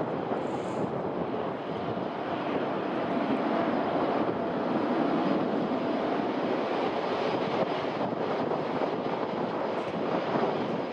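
Airliner engines running, a steady rushing noise that swells somewhat in the middle and eases off, with a faint whine riding on it.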